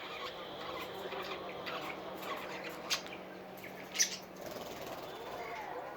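Pet parrots chirping and chattering, with two sharper, louder calls about three and four seconds in.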